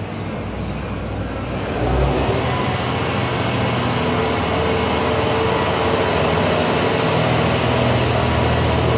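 JR Hokkaido H100 diesel-electric railcars pulling out of the platform, their running noise growing louder about two seconds in and then holding steady as a hum over a rumble.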